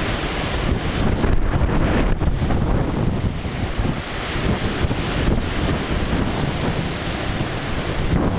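Strong wind buffeting the microphone over waves breaking on the shore: a loud, continuous rushing roar that surges and eases in gusts.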